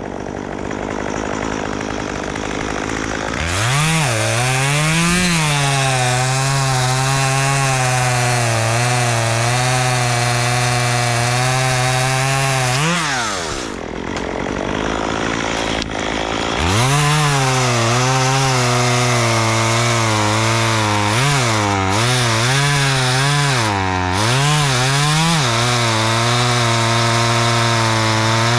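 Gas chainsaw revved up a few seconds in and held at high speed through a cut, its pitch flicking up and then settling slightly lower. It drops back briefly around the middle, then runs at high speed again with a few quick throttle dips.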